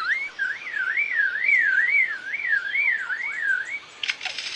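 Lyrebird mimicking a car alarm: a warbling whistle that swings up and down about twice a second. Near the end it gives way to a burst of rapid clicking.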